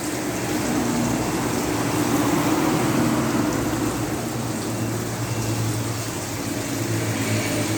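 Water falling and splashing steadily in a small home-made waterfall fountain, with a low hum underneath.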